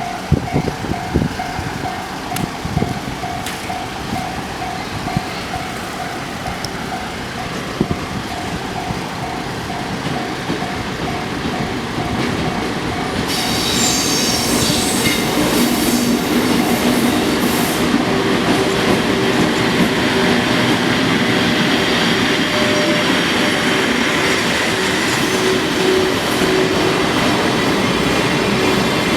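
A level-crossing alarm bell rings in a steady pulsing ding. About halfway through, the JR West 24 series Twilight Express cars pass close by, their wheels clattering over the rail joints with high squeals.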